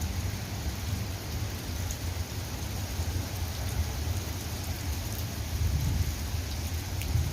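Steady rain falling, an even hiss with a continuous low rumble underneath.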